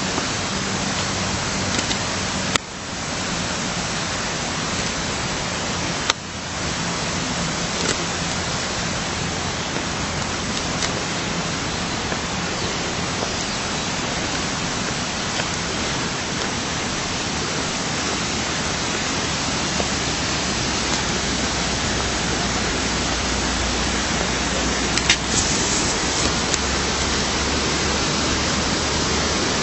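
Steady, even rush of water from a stream or waterfall in a rocky valley, a constant hiss with no breaks in its flow.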